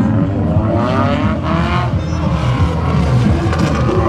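Car engine revving hard on a race track, its pitch rising and falling with the throttle.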